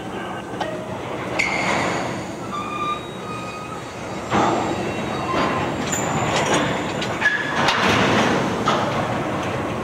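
Freight train of tank cars rolling slowly past: a steady rumble of wheels on rail with scattered clanks and several short, high squeals from the wheels.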